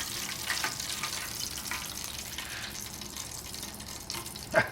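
Breaded Spam steak frying in hot oil in a pan: a steady sizzle with small crackles.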